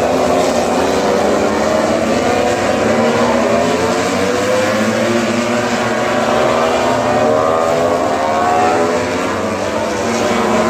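Many MotoGP racing motorcycle engines running together, their pitches wavering up and down as the riders rev.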